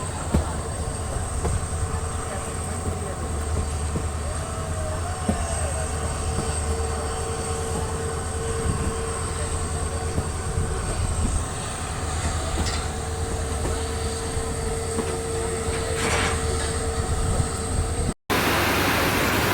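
A train running on the track: a steady low rumble with a held whine and a few sharp clicks. Near the end it cuts off abruptly to a steady hiss.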